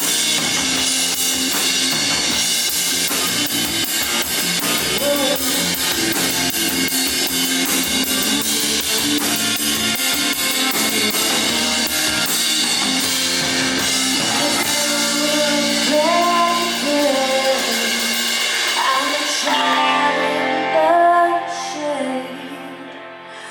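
Live indie rock band playing an instrumental passage: a full drum kit with cymbals over electric guitars. About 15 s in the drums drop away and the music thins to guitars with a wavering melody line, the bass cuts out a few seconds later, and the level sinks just before the end.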